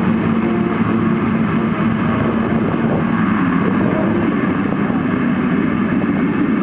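A pack of motocross bikes' engines running together at a race start, a dense, loud, continuous racket with several engine notes rising and falling as the riders rev.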